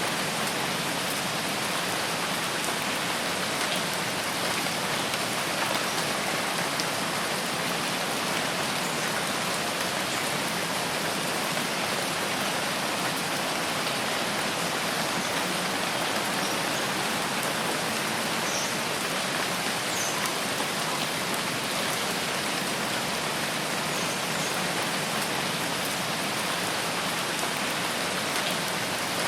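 Steady rainfall, an even hiss that does not change, with a few faint high chirps now and then.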